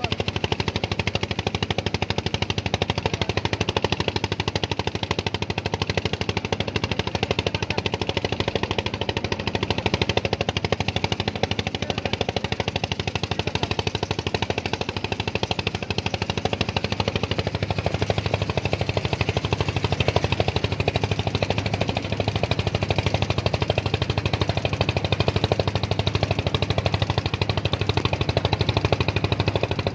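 An engine running steadily with a rapid, even knocking beat throughout.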